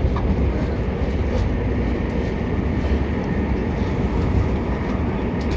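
Steady low rumble of a Class 377 Electrostar electric multiple unit running along the line, heard from inside the passenger coach.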